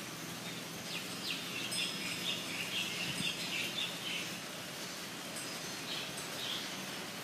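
A songbird gives a quick run of high chirps for a few seconds, with a couple more brief chirps a little later, over a steady hiss of falling rain.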